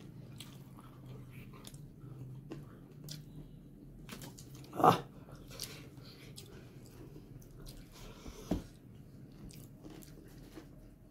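Close-up chewing and mouth sounds of a person eating a meal, a run of small wet clicks. There is one louder brief sound about five seconds in and a sharp click a few seconds later.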